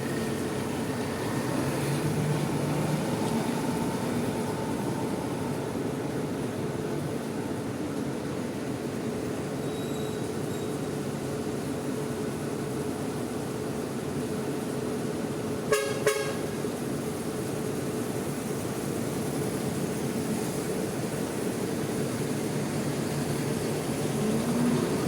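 Bus engines running steadily, with a vehicle horn giving two short toots about two-thirds of the way through.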